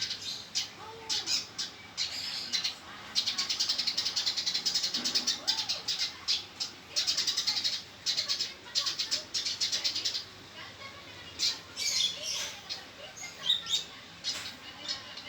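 Male Eurasian tree sparrow chirping in quick, harsh chattering runs, the agitated calling of a fighting sparrow, with sparser single chirps near the end.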